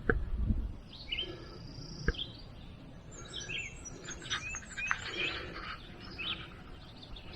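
Several wild birds chirping and calling in short, high, scattered notes. There is a low rumble on the microphone in the first half second and a single sharp click about two seconds in.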